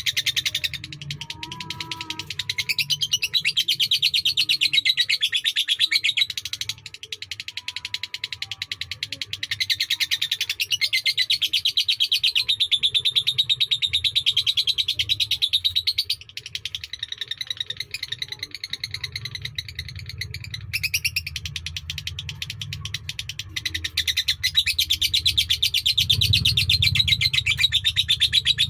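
Lovebird singing a long, rapid, rattling chatter in long unbroken phrases: the long-duration song bred and trained for in Indonesian lovebird song contests. It eases off briefly twice, at about 7 and 17 seconds in, and then picks up again.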